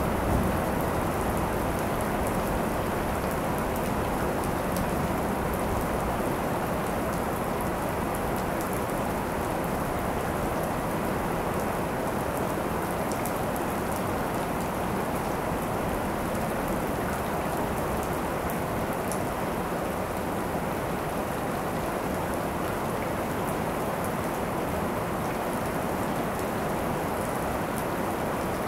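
Steady heavy rain falling and pattering on surfaces, with scattered drop ticks.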